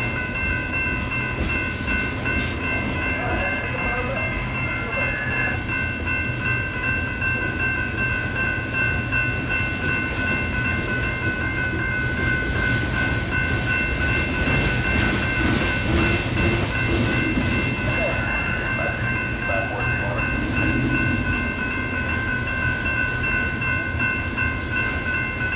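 Freight train cars rolling through a grade crossing, a steady rumble of wheels on rail. Over it the crossing's two electronic bells (an NEG E-Bell and a GS Type 3 E-Bell) ring without a break as high steady tones.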